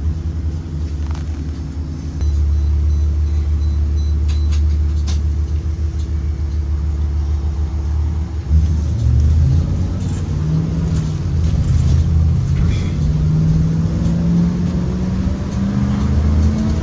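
2023 Blue Bird Vision school bus running, a heavy low rumble that gets louder about two seconds in. From about halfway the engine's pitch slowly rises as the bus picks up speed.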